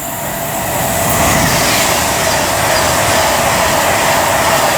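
Class 390 Pendolino electric express passing through at speed: a loud rush of wheel and air noise that builds over the first second and then holds steady, with a faint steady whine under it.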